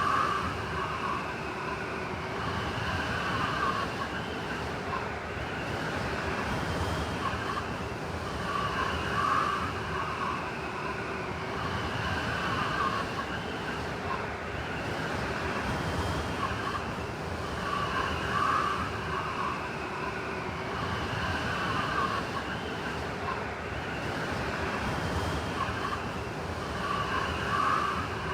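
Blizzard wind sound effect: a steady rush of wind with howling, whistling tones that swell and fade, the same pattern coming round about every nine seconds.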